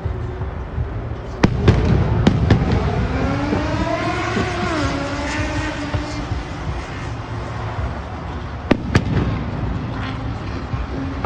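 Aerial fireworks going off: four sharp bangs close together about one and a half seconds in, two more near the end, and a low rumble throughout. In between, a pitched sound rises and then falls.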